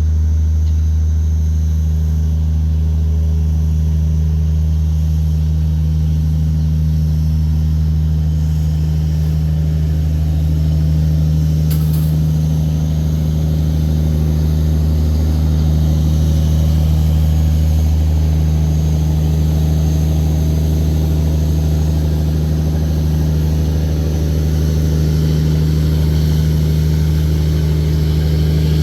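Tugboat diesel engine running steadily, a deep even drone, with one brief click about twelve seconds in.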